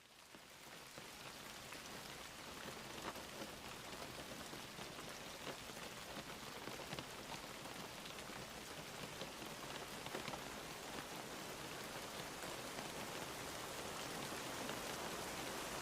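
Rain falling steadily, a dense patter of drops with no other sound on top. It fades in at the start and grows slowly louder toward the end.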